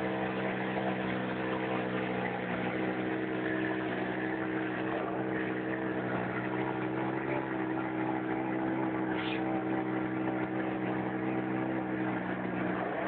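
Audi quattro Group B rally car's turbocharged five-cylinder engine idling steadily, with one brief high chirp about nine seconds in.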